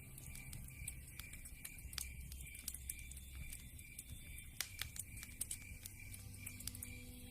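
Wood fire crackling in a fireplace: irregular sharp pops and snaps over a low rumble of burning.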